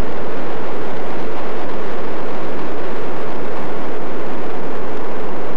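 Steady, unbroken rumbling of a running train, with no change or break.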